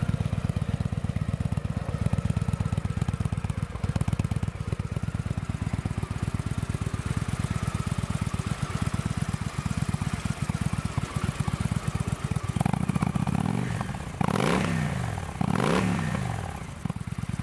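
2014 Victory Vegas 8 Ball's 106-cubic-inch fuel-injected air/oil-cooled V-twin idling with a steady loping pulse through Victory Performance exhaust pipes. Near the end it is revved twice, the pitch climbing and falling back each time.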